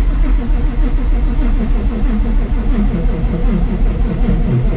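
Whipple-supercharged, cammed Ford Coyote V8 firing and running unevenly on a start attempt, barely staying lit. The owner thinks it is short of fuel.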